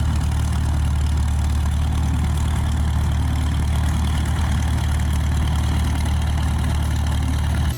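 Engine idling steadily with a deep, even drone that stops abruptly near the end.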